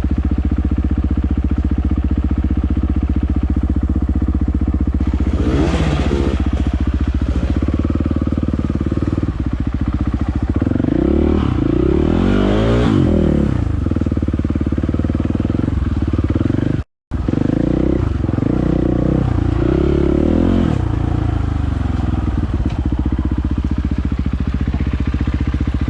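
Dirt bike engine running steadily, with the revs swinging up and down a few times in the middle as the bike is ridden. The sound cuts out completely for an instant about two-thirds of the way through.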